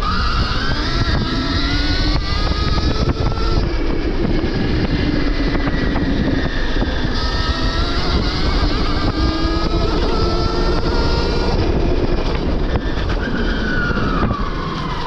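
Stark Varg EX electric dirt bike's motor whining at speed on a trail, its pitch rising and falling as the throttle opens and closes, over a steady rush of wind and riding noise.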